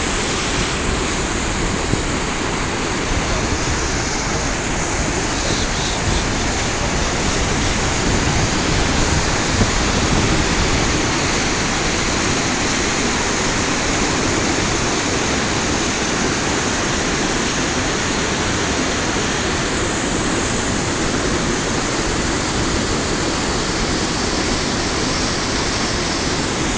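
Waterfall: a steady rush of falling water, loud and unbroken.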